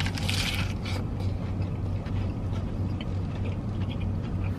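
Steady low hum of a car's engine and tyres heard from inside the cabin while driving, with a brief hiss about the first second and a few faint ticks.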